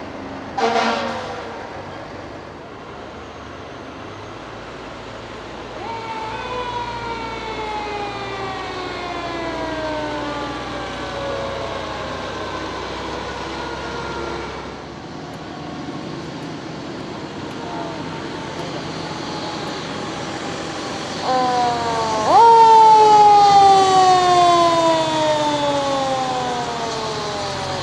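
Fire truck sirens winding down: a short loud blast about a second in, then a siren falling slowly in pitch from about six seconds in. Near the end a louder siren winds up sharply and then slowly falls away, the loudest sound here, over the low steady hum of truck engines.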